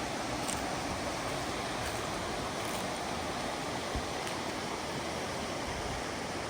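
Mountain stream flowing steadily over rocks, a constant rush of water.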